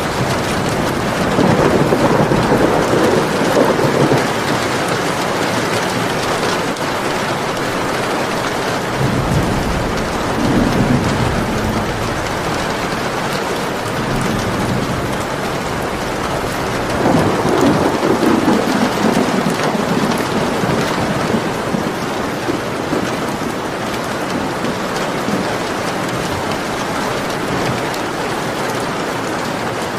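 Steady rain falling. Low rumbles of thunder roll in three times: near the start, about ten seconds in, and again a little past the middle.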